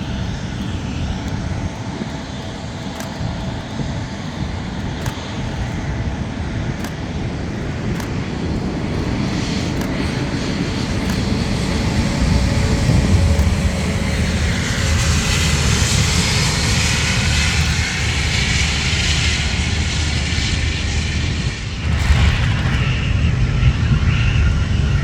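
Airbus A350-900 jet engines (Rolls-Royce Trent XWB turbofans) running and growing louder, with a whine that rises in pitch around the middle, typical of thrust coming up for departure.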